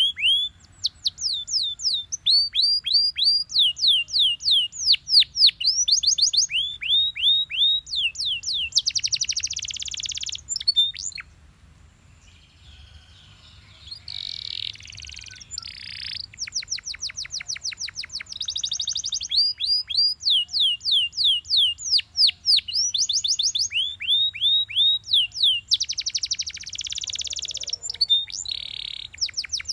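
Belgian canary singing: fast runs of repeated down-slurred whistled notes, broken by buzzy rolls, with a pause of about two seconds near the middle.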